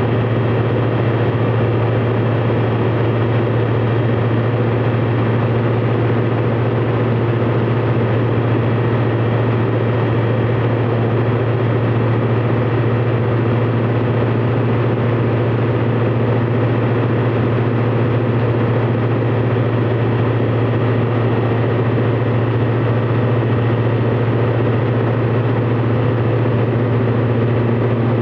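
Light aircraft engine running at a steady drone, with no change in pitch or level.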